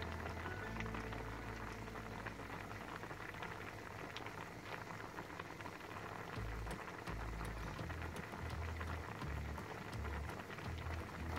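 Stingray stewed in coconut milk and vinegar simmering in a metal pan: a steady bubbling with many small pops.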